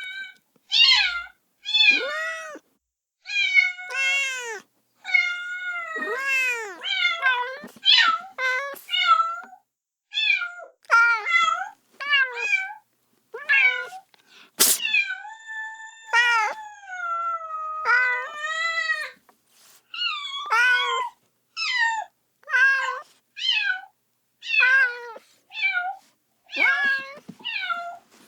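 Kitten meowing over and over, calling for its mother: short high-pitched cries, about one or two a second, some bending up and down in pitch. A single sharp click about halfway through.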